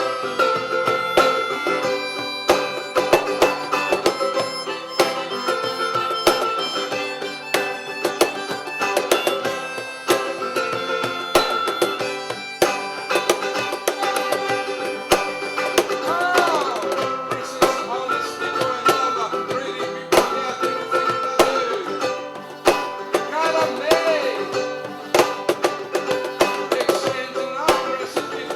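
A small live acoustic band playing an instrumental passage: acoustic guitar strumming and hand percussion keeping a steady beat under a lead melody of long held notes that bend in pitch.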